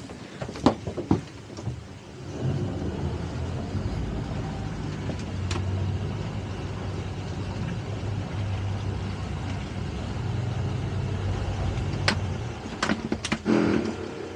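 A boat engine runs steadily with a low hum, coming up about two seconds in. There are a few sharp knocks at the start and again near the end.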